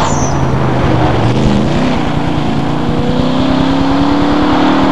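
De Tomaso Pantera's V8 engine pulling hard at speed, its pitch climbing steadily as the car accelerates away. A brief high squeal sounds right at the start.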